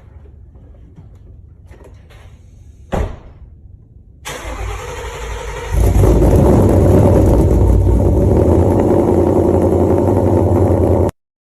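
Ford Mustang GT V8 with an aftermarket exhaust. There is a sharp knock about three seconds in, the engine note comes up about a second later, and about six seconds in it jumps to a loud, steady run that is held for about five seconds before cutting off suddenly.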